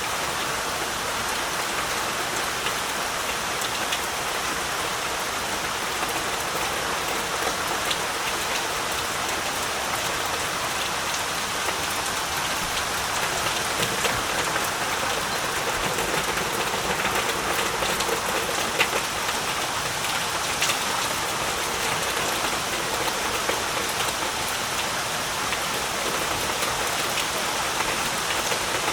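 Heavy rain falling steadily, a dense even hiss with scattered sharper drop strikes close by.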